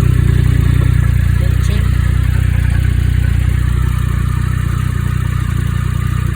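Triumph Sprint GT 1050's three-cylinder engine idling steadily, easing slightly quieter after about four seconds.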